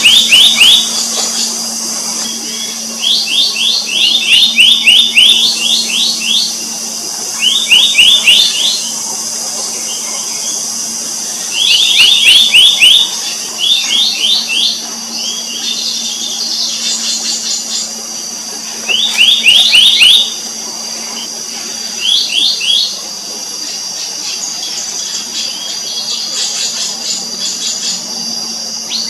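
Black-naped monarch calling: about eight bursts of rapid, ringing notes, each note sweeping upward, each burst about a second long, with pauses of a second or more between them.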